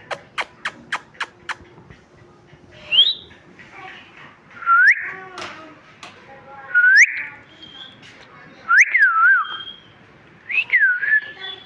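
Pet parrot calling: about six quick sharp clicks in the first second and a half, then short clear whistles every couple of seconds, most of them swooping down and back up in pitch.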